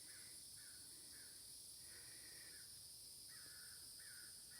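Faint, distant bird calling over and over, short notes about twice a second with a couple of longer ones, over a steady high drone of insects such as crickets.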